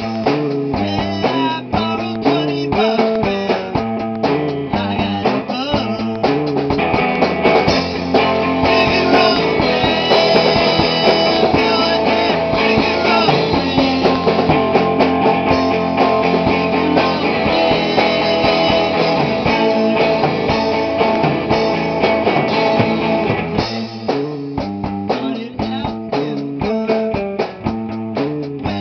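Rock band playing live at rehearsal: electric guitar, bass and drums. It opens on choppy rhythmic chords, swells into a fuller, louder passage for most of the middle, and falls back to the choppy chords near the end.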